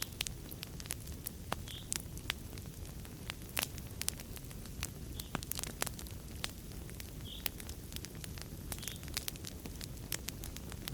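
Wood fire burning in a fireplace: a steady low rumble of flames under many sharp, irregular crackles and pops.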